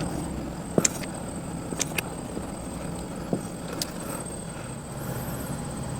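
Porta Power hydraulic ram being worked against a car frame: four short sharp clicks, the loudest about a second in, over a steady low background noise, as the ram pushes the bent frame back out.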